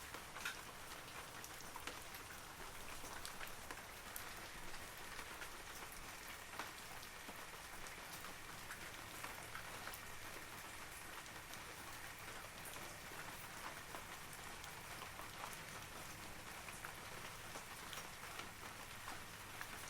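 Steady rain falling on forest foliage, a continuous hiss dotted with the ticks of individual drops striking leaves.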